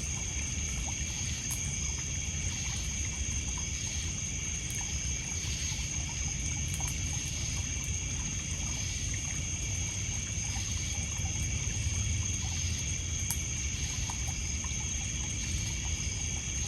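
A steady chorus of crickets and other insects trilling, over water lapping and trickling on a pebble shore, with faint scattered crackles from a wood campfire.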